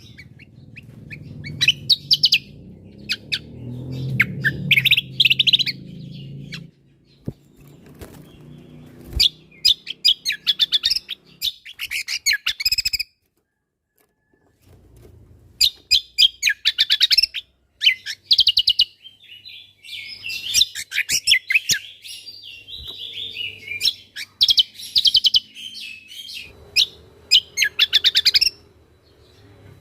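Cucak kombo (kecial kombo) songbird singing rapid volleys of sharp, high chirps and fast trills. The song breaks off briefly about halfway through, then resumes.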